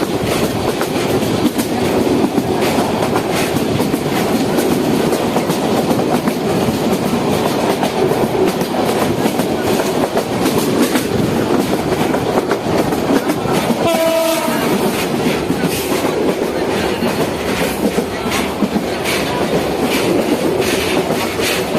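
Passenger train running, heard from inside the carriage: a steady rumble of wheels on the track with rail-joint clicks, the clicks stronger near the end. A short tone sounds about two-thirds of the way through.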